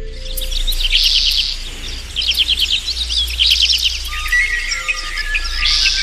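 Birds chirping in dense clumps of quick, repeated high calls, over a steady low hum.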